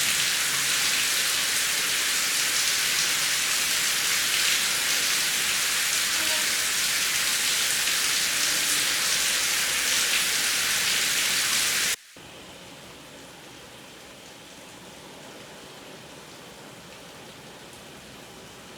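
Heavy rain falling as a steady, dense hiss that cuts off suddenly about twelve seconds in, giving way to much quieter, softer rain.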